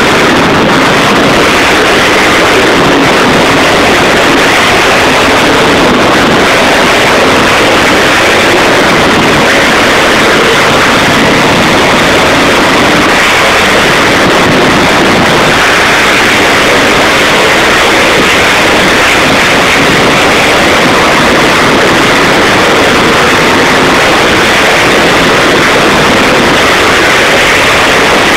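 Monster truck engines in an arena, heard as a loud, unbroken, noisy din that swamps the recording with no pauses.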